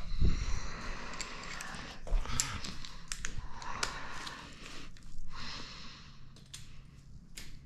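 Small metal engine parts being handled by hand: scattered sharp clicks and clinks with rustling noises in between.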